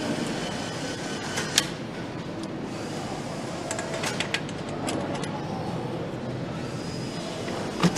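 Assembly-line machinery noise: a steady din with scattered sharp metallic clicks and knocks, a loud one about a second and a half in, a cluster around the middle and another loud one near the end.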